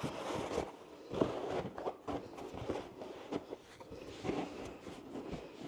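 Rustling and light, irregular knocks of fabric storage bins being handled and fitted into place.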